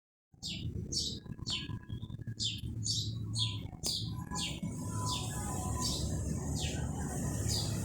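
A bird calling over and over: short, high notes that slide downward, about two a second, over a low steady rumble.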